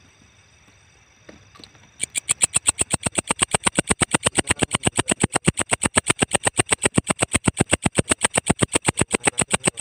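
Walang kecek katydid calling: a fast, even train of sharp, high chirping pulses, about six or seven a second, that starts about two seconds in and runs on without a break.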